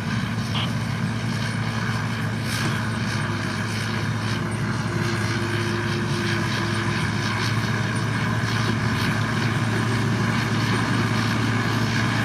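Diesel engine of a heavy earthmoving machine running steadily, a low drone that grows slightly louder toward the end.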